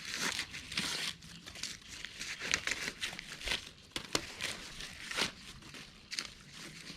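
Dry corn leaves and husks rustling and crackling as ears are picked by hand, with scattered sharp snaps.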